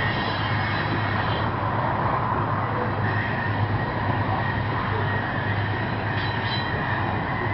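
Huron & Eastern coal train rolling past with a steady, heavy rumble, its diesel locomotives pulling the train upgrade under power.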